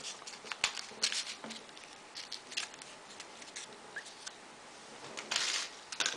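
Folded paper units of a 3D modular origami model being handled and pushed onto one another: scattered light paper clicks and rustles, with a longer rustle about five seconds in.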